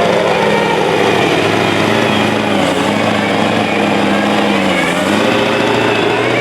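Sport-class pulling truck's engine running loud and steady at high revs under load during a pull, its pitch wavering only slightly.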